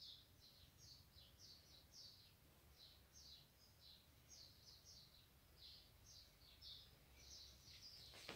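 Faint bird chirping: short, quick notes, many falling in pitch, repeated a couple of times a second over low room rumble, with a brief rustle near the end.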